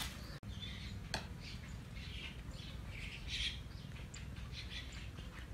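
Birds chirping in short, scattered calls over a faint low hum of outdoor background noise, with a single click about a second in.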